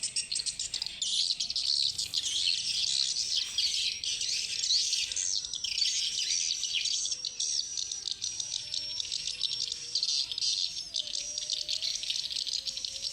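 Swiftlets twittering in a dense, unbroken chorus of high chirps as they come in to roost at dusk.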